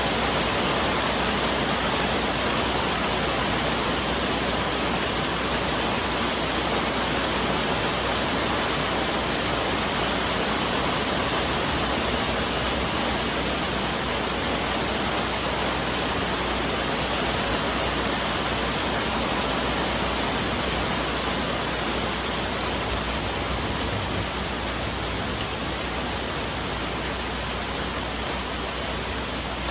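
Steady rain falling on forest leaves, an even hiss with no thunder, easing slightly about two-thirds of the way through.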